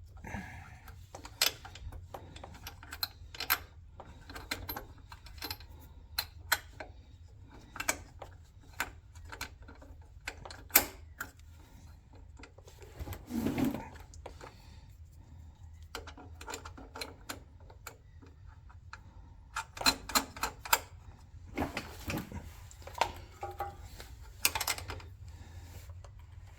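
Irregular clicks, taps and light clanks of hand tools and metal shifter parts as an overdrive shifter conversion kit is being fitted, busier near the end, over a steady low hum.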